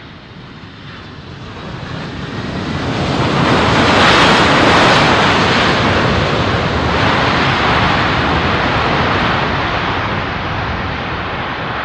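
Jet airliner passing by, its engine roar building to a peak about four seconds in and then slowly fading.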